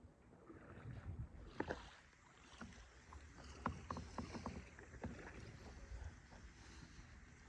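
Kayak being paddled: faint water sounds with scattered light clicks and knocks.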